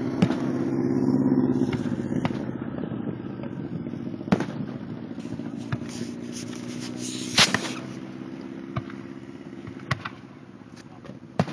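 Fireworks shells bursting in the sky: sharp booms every second or two, the loudest about seven seconds in with a crackling hiss around it. A steady low hum runs underneath.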